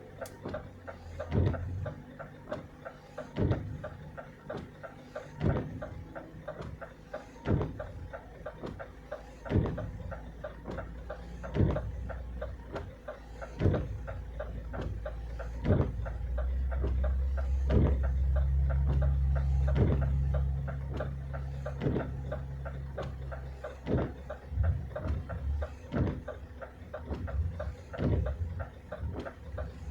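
Inside a car in a snowstorm: windshield wipers knocking about every two seconds over the running engine, which gets louder for several seconds just past the middle.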